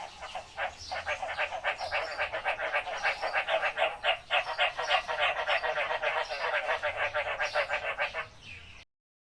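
Frogs calling in a rapid, continuous run of pulsed croaks, several pulses a second, which fades and then cuts off suddenly near the end.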